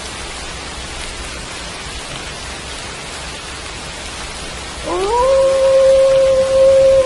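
Steady rain hissing, with a wolf howl starting nearly five seconds in: the call rises quickly and then holds one long steady note.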